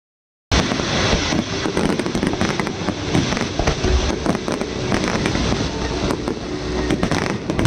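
Fireworks display going off: a dense, continuous run of sharp bangs and crackling pops with heavier low booms among them, starting about half a second in.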